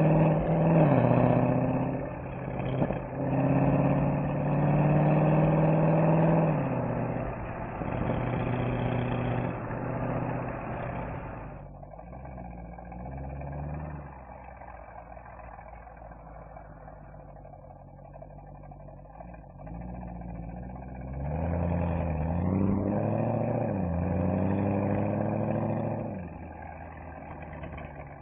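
Mercedes-AMG SL63's V8 engine and exhaust under way, the revs rising and falling with gear changes. It is loud under acceleration for about the first ten seconds, drops to a quiet cruise, then pulls hard again for a few seconds about three-quarters of the way through before easing off.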